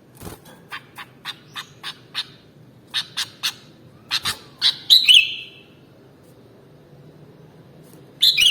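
Sooty-headed bulbul (kutilang) calling: a run of short, sharp chirps, about three a second. Louder, fuller calls come about five seconds in and again near the end.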